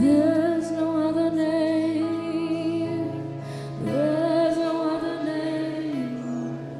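Slow worship music: a woman singing two long held notes with a little vibrato over soft sustained instrumental chords.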